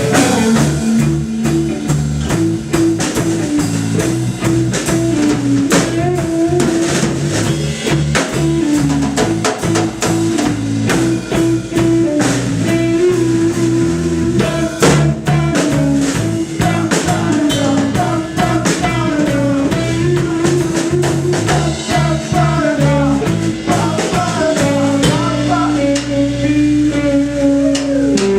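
Live rock band playing: guitar over a moving bass line with a steady drum-kit beat.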